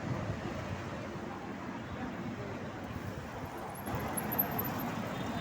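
Steady noise of motor traffic on a busy city road, growing louder about four seconds in.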